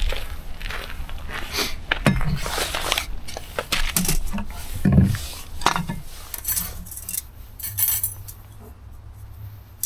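Metal camp cookware clinking and knocking as it is handled: irregular clanks, busiest in the first half and fewer and fainter near the end.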